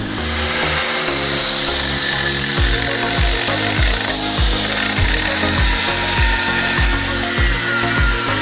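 A power tool running with a high whine that drifts slowly up and down in pitch, over background music with a steady kick-drum beat.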